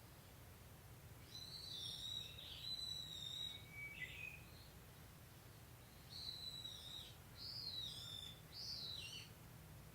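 Songbirds singing: several clear whistled phrases, mostly high notes with quick down-sweeps, over a faint low steady rumble.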